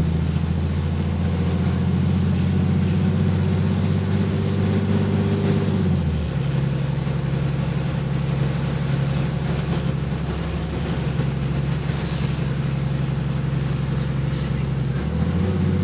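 Diesel engine of a double-decker bus, heard on board with an exhaust leak. The engine runs steadily, its note dropping and changing about six seconds in and picking up again near the end.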